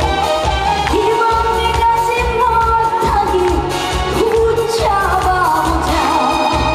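Live Korean trot music: a woman singing long, wavering held notes over a band backing with a steady bass beat.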